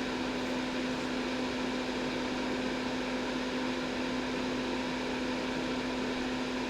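Steady electric fan or motor hum, a constant low tone with its overtones over an even whoosh of air, with no change in pitch or level.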